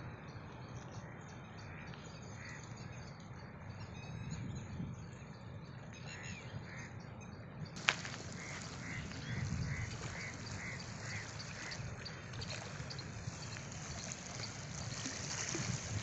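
A bird calling, a run of about ten short calls at roughly three a second, just after a sharp click about halfway through, over a steady low rumble of wind and water.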